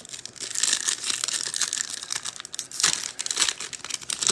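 Plastic-foil trading card pack wrapper crinkling and crackling as it is handled, torn and crumpled, with a sharper burst of crinkling about three seconds in.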